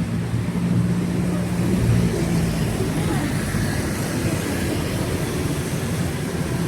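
Street traffic: vehicle engines running close by with a steady low drone over a continuous wash of road noise.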